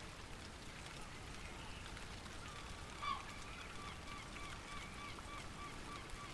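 A bird calling: one loud call about three seconds in, then a fast run of short, evenly repeated honking notes, about three or four a second.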